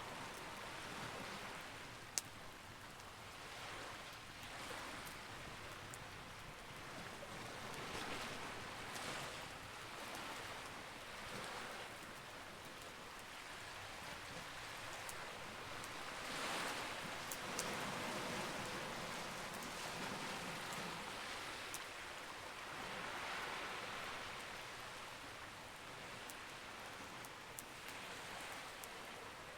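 Campfire crackling, with a few sharp pops from the burning wood over a steady hiss that swells and fades every few seconds.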